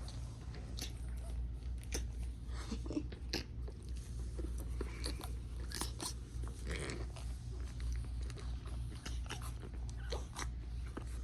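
Shih Tzu puppies chewing, a run of irregular sharp crunches and clicks over a steady low hum.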